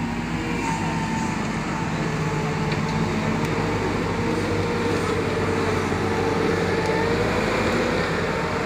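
A motor vehicle's engine running steadily under way, with a faint whine that wavers a little in pitch.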